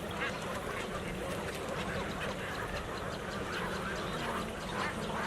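A large flock of birds calling continuously, many short overlapping calls, like a waterbird colony.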